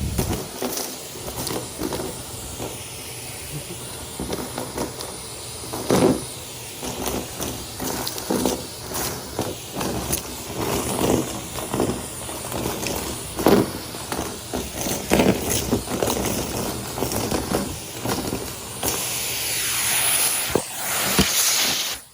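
Henry cylinder vacuum cleaner running and sucking up debris, with many irregular clicks and rattles as bits go up the hose. A louder hiss comes in over the last few seconds, then the sound drops away suddenly at the end.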